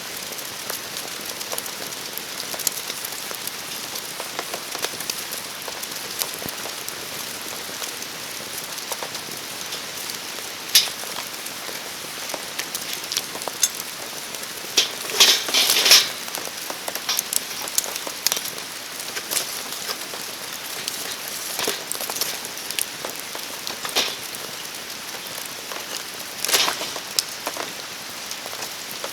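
Steady rain falling, with a wood campfire crackling and popping: a cluster of sharp pops about halfway through and another strong pop near the end.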